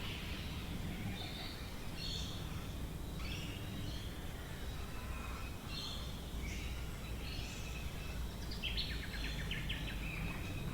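Several birds calling and singing, with short chirps and whistled phrases overlapping one another and a quick run of rapid repeated notes near the end, over a steady low background rumble.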